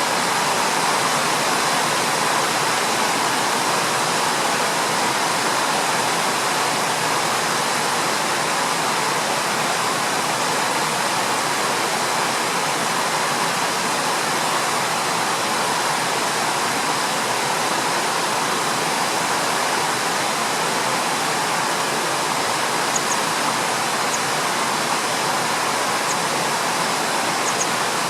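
Steady rushing of flowing water, like a stream or small weir, running unbroken.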